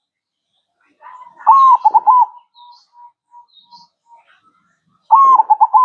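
Zebra dove (perkutut) cooing: a loud, rapid phrase of ringing coos about a second in, trailing off into soft short notes, and another phrase starting near the end.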